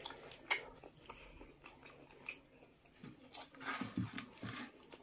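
Close-up eating sounds: biting into fried chicken and chewing with the mouth, a scatter of short wet smacks and clicks that grow busier about three seconds in.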